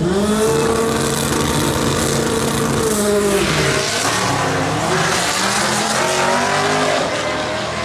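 A race car's engine revs up and holds high for about three seconds over a loud hiss of tire noise. The revs then drop and rise and fall unevenly.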